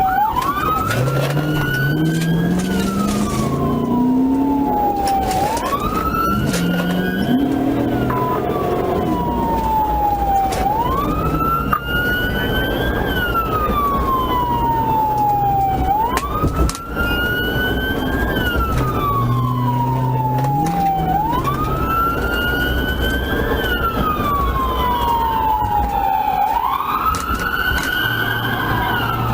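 Police car siren on wail, each cycle jumping quickly up in pitch and then sliding slowly down, repeating about every five seconds. The patrol car's engine and road noise run underneath.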